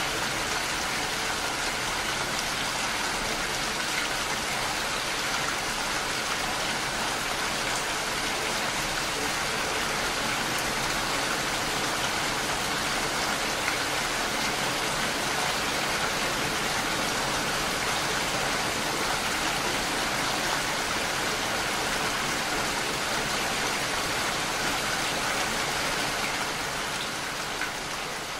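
Steady rain falling, an even hiss of many drops, fading slightly near the end.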